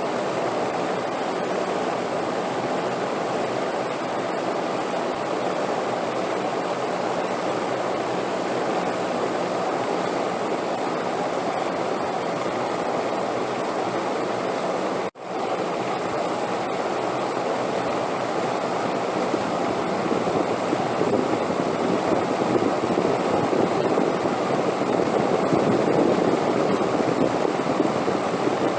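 Steady rushing wind noise for relaxation, broken once by a momentary drop-out about halfway through, then growing a little louder near the end.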